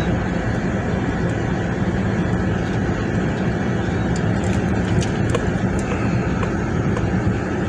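A vehicle driving along a dirt road: a steady rumble of engine and tyres, with a few light ticks and rattles scattered through it.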